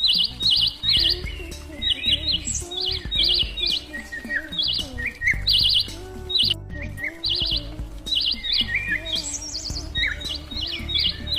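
A bird chirping in short, high phrases that repeat about once a second, over soft background music.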